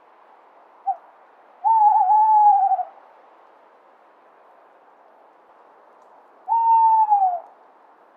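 Owl hooting: a brief note, then two long hoots a few seconds apart, each wavering slightly and dropping in pitch at the end, over a faint steady hiss.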